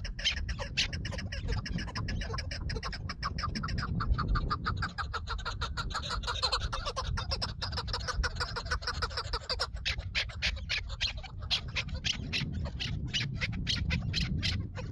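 Chukar partridges calling: a long run of rapid, clucking call notes, most crowded from about four seconds in to about ten, over a low rumble.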